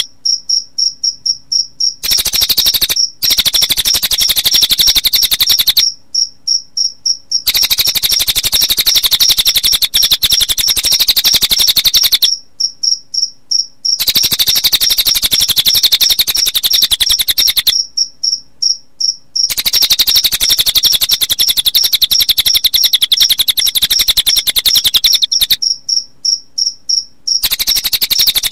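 Recorded song of a cililin bird mixed with cricket chirping. A fast, even cricket pulse goes on almost without a break, while the bird's rapid, high trill comes in long bouts split by short pauses of a second or two.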